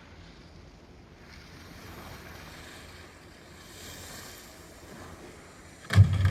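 Skis running over snow with wind rushing on the microphone, a steady rushing noise that swells a little midway. A loud thump about six seconds in.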